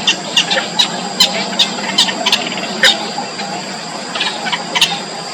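Yellow bittern chicks calling in the nest: short, sharp squeaky calls repeated irregularly, two or three a second, over a steady high-pitched whine.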